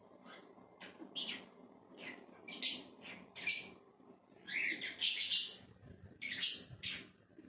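Pet parrot chirping: a run of short, high chirps and squeaks, a dozen or so, bunched most thickly and loudest around four to five seconds in.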